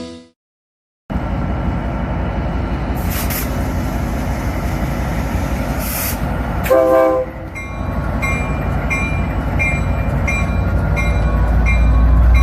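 Battery-powered EZTEC toy train running on its track with a steady fast rattle. About seven seconds in it sounds a short electronic horn, followed by a repeating bell ding about twice a second.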